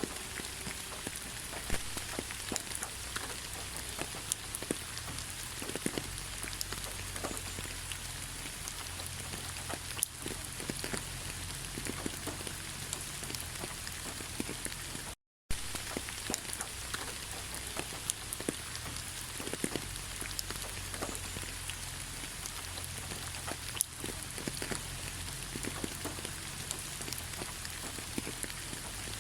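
Steady rain, with a dense hiss and many individual drops tapping on a surface. The sound cuts out for a split second about halfway through, then carries on unchanged.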